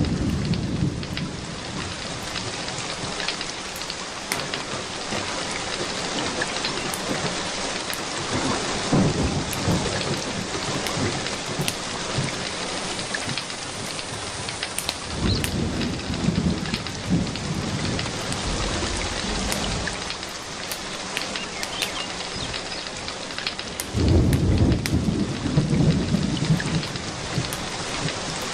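Steady rain with low rolls of thunder rumbling in and out, one about halfway through and a louder one near the end. Scattered sharp ticks sit over the rain.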